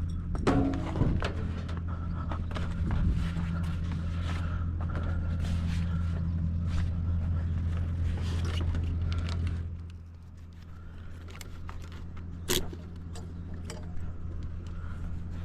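An engine running steadily at a low idle, with scattered clicks and knocks. The engine sound drops noticeably about ten seconds in, and there is one sharp click a couple of seconds later.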